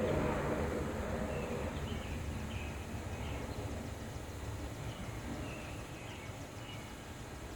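Low rumble of a passing helicopter, fading slowly as it moves away, with small birds chirping a number of times over it.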